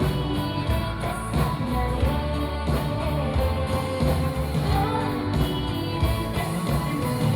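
Live pop-rock band playing an instrumental passage of a song, with drums and cymbals keeping a steady beat under bass and guitar.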